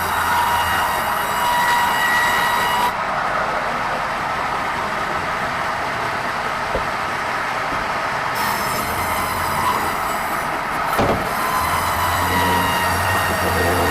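Sawmill band saw running and cutting red meranti timber: a steady mechanical noise with a faint high whine, and a single short knock about eleven seconds in.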